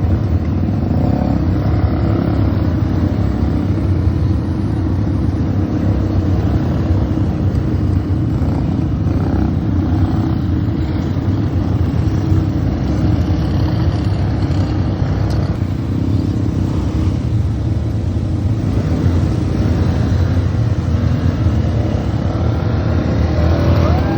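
ATV engine running steadily while ridden, a constant low drone.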